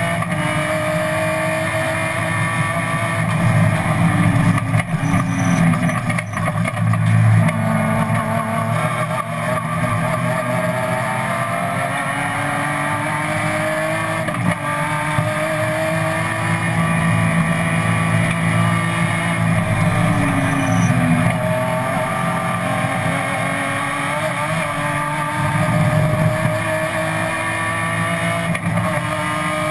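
BMW M3 race car's engine heard from inside the cabin, running hard: the pitch climbs slowly through each gear and drops at each gear change or braking point, several times over.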